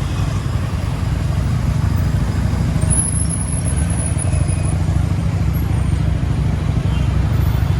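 Steady low rumble of riding a motorbike through highway traffic, with no single event standing out.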